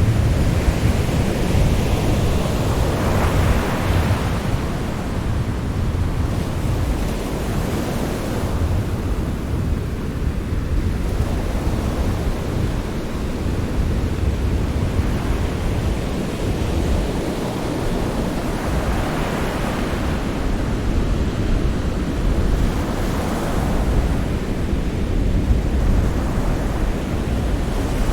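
Sea surf with a steady low rumble. Waves swell and wash in a few times: about three seconds in, and twice more after the middle.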